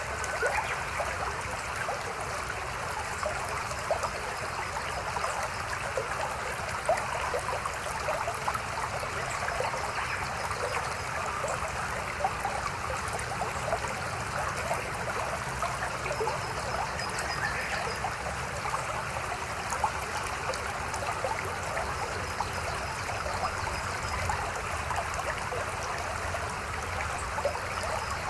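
A river babbling steadily, a continuous rush of flowing water with small splashing flickers in it.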